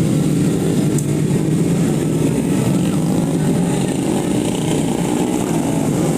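Tuned 130 cc automatic racing scooter engines running in a steady, continuous drone.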